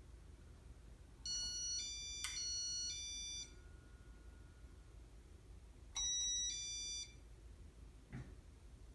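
Casablanca ceiling fan's built-in beeper playing demo-mode tone sequences: a run of electronic beeps stepping between pitches for about two seconds, then a shorter run of beeps about six seconds in.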